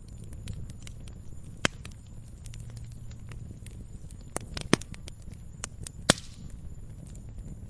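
Wood fire crackling: scattered sharp pops and snaps, the loudest about two seconds in, near five seconds and near six seconds, over a steady low rumble of the burning fire.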